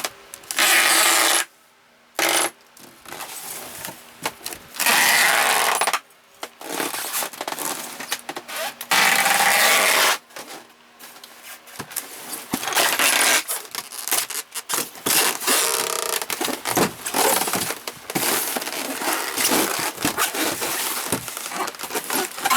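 Packing tape being pulled off its roll in three loud strips of about a second each, near the start, about five seconds in and about nine seconds in. Between and after the strips come crackling and tapping as the tape is pressed down along the seam of two styrofoam boxes.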